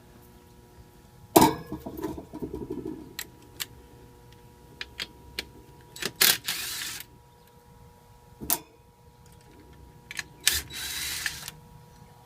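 Sharp clicks, knocks and clatter of tools and electrical parts being handled during wiring work, with two brief rustling hisses, over a faint steady electrical hum.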